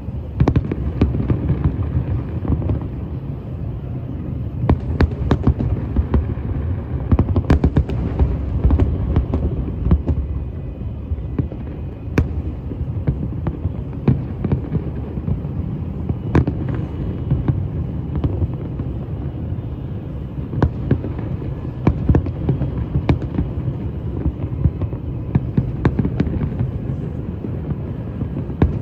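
Fireworks going off: many sharp bangs and pops at irregular intervals, several a second at the busiest, over a continuous low rumble.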